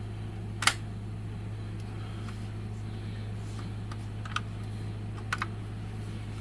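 A few sharp clicks and taps from a die-cast metal toy car being handled, one loud click early on and a quick pair of clicks near the end, over a steady low hum.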